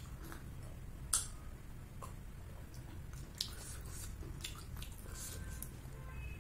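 Close-miked eating mouth sounds: sipping water through a straw, then chewing, with scattered wet smacks and sharp clicks, the loudest about a second in. A steady low hum runs underneath.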